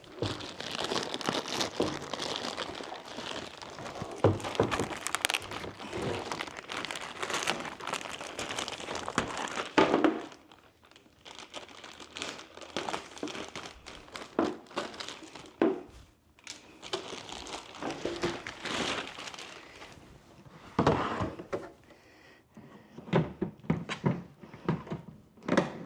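Plastic packaging crinkling and rustling as it is unwrapped from storage boxes, dense for about the first ten seconds, then broken up by scattered knocks and thunks as the hard plastic boxes are handled.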